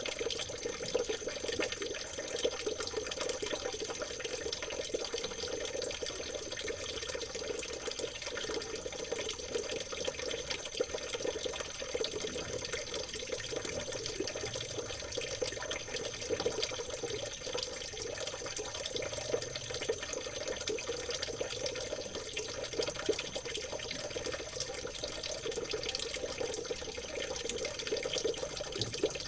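Small stream of water trickling and babbling steadily, an unbroken splashing flow.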